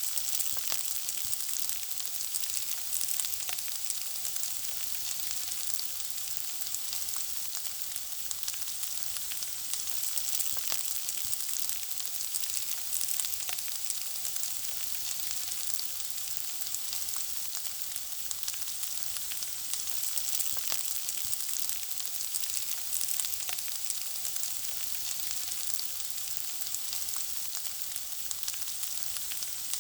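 Food frying in hot oil: a steady sizzle, full of small crackles and pops.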